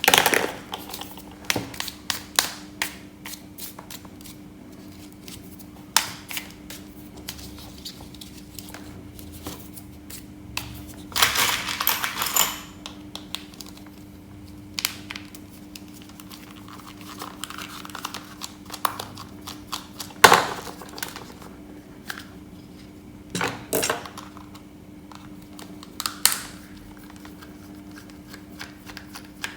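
Scattered clicks and taps with a few short crinkling bursts, as of small parts being handled, over a low steady hum.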